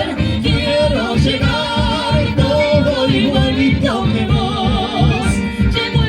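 Live chamamé band playing: a wavering melody line with vibrato over a steady, pulsing bass beat.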